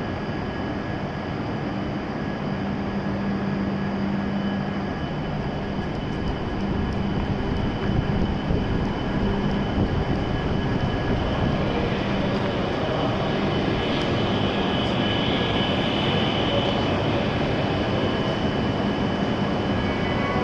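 E7-series Shinkansen train at a station platform: a steady mechanical hum and whir with a few steady tones, growing gradually louder.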